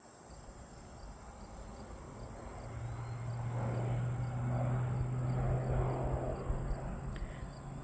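Low-flying agricultural spray plane passing over, its engine growing louder to a peak about five seconds in and then fading, over a steady chirping of crickets.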